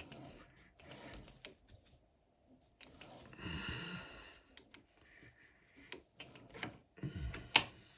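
Scattered light clicks and taps of small metal parts and hand tools being handled at a lathe while threads are cut by hand, with a few sharper clicks near the end.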